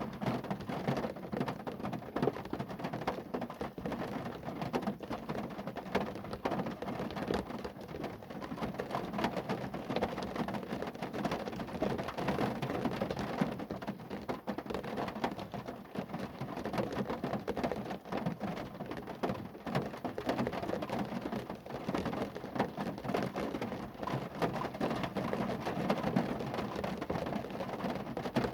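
Rain falling on a car: a steady, dense patter of countless drops striking the car's body.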